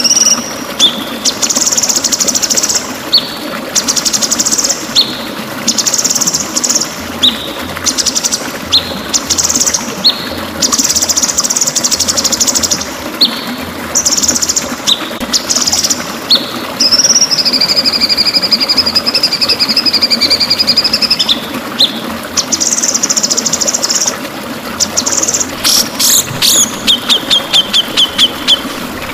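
White-rumped shama (murai batu) singing: bursts of fast, high trills and short chirps, a long wavering whistle about 17 seconds in, and a run of rapid repeated notes near the end, over a steady background rush.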